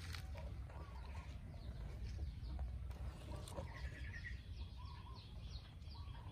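Birds chirping and calling over a low steady rumble, with a quick run of short falling chirps in the second half.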